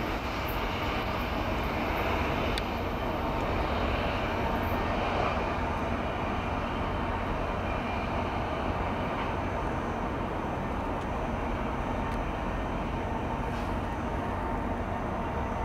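Steady low rumble of a departing diesel-hauled inspection train: the CN SD70i locomotive's engine running and the wheels rolling on the rails, blended with a constant haze of highway traffic noise.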